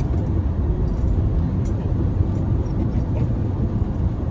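Steady road and engine rumble heard from inside a moving car, with a few faint ticks over it.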